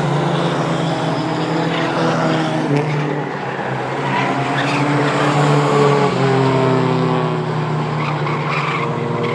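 Mighty Trucks racing on a short oval: several engines running hard together, their pitch rising and falling as the trucks go by.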